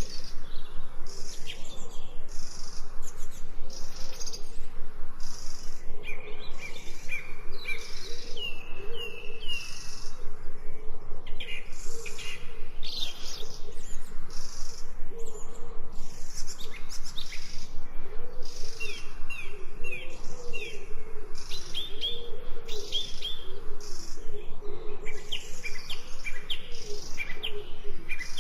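Birds singing and chirping: an even, rapid high chirping runs on throughout, with runs of falling song notes a few times and a low warbling call underneath.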